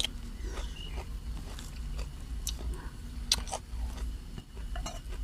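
Close-mic mouth sounds of someone chewing and biting a mouthful of spicy seafood papaya salad with rice noodles, with scattered short wet clicks.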